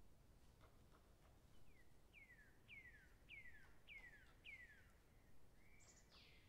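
A songbird whistling a faint series of six clear notes, each sliding downward in pitch, about two a second, then a brighter, higher call near the end. Faint light ticks sound now and then underneath.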